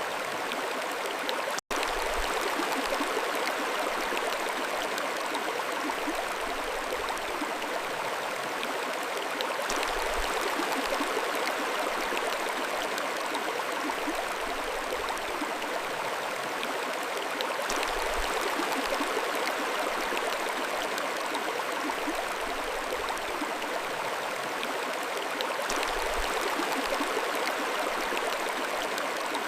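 Mountain stream flowing: a steady rush of running water, with a split-second dropout about two seconds in.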